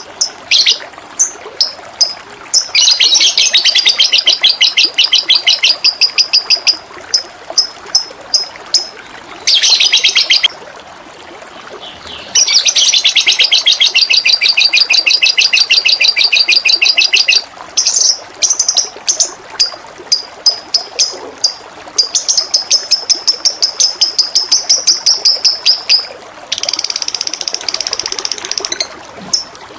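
Songbird singing loudly in long, high, rapid trills of several seconds each, alternating with runs of short sharp chips, over a steady rush of flowing water.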